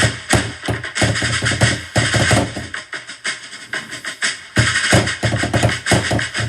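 Drumming to a medley: rapid, dense drum strokes that thin out for a couple of seconds midway and come back in full about four and a half seconds in.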